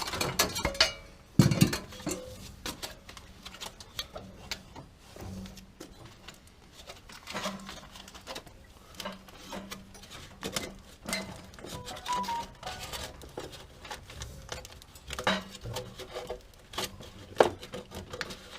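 Irregular metallic clanks, taps and knocks of pipe and fittings being handled, with a loud knock about a second and a half in and another near the end.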